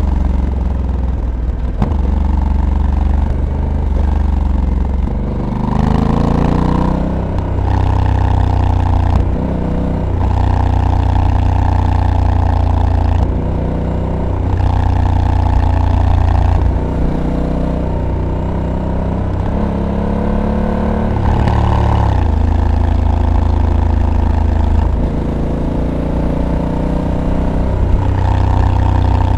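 Honda Africa Twin's 1084 cc parallel-twin engine pulling under acceleration, its pitch rising and then stepping down as the dual-clutch transmission shifts gears. It alternates between climbs in revs and easing off several times.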